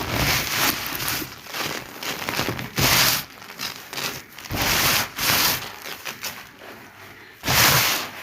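Dry sand cement being crumbled in a sheet: a run of gritty crunches and crackles, with louder crunches about three seconds in, around five seconds, and near the end.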